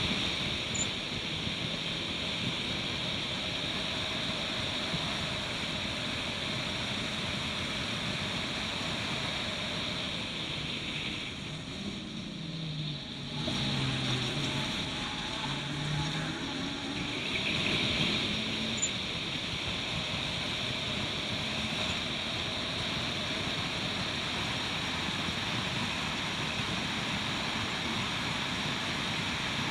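Turbocharged Suzuki Swift race car running at speed, a steady rush of wind and road noise over the engine. Around the middle the engine note dips and then climbs again.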